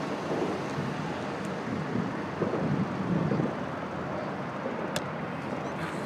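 Wind buffeting a handlebar-mounted phone's microphone and road rumble from a moving bicycle, with city traffic behind. A single sharp click about five seconds in.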